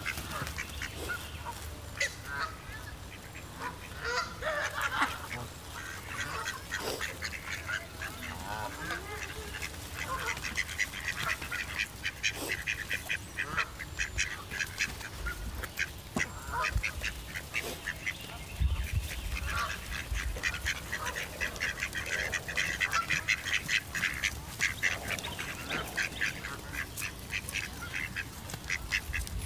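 Birds calling, with many short, rapid calls that grow denser in the second half, over a low rumble.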